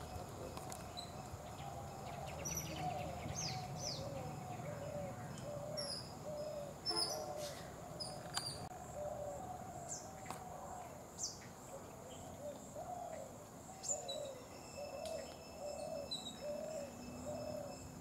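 Wild birds calling: a short, low hooting note repeated about twice a second, with scattered quick high chirps over a steady high-pitched whine.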